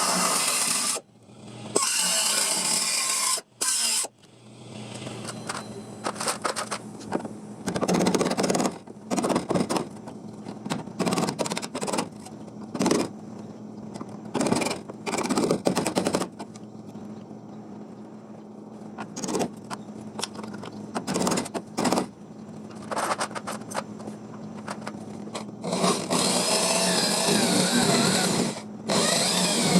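Power tool working the rusted sheet-metal floor panel of a Suzuki Cappuccino: a few longer runs and many short bursts of a second or less, over a steady low hum.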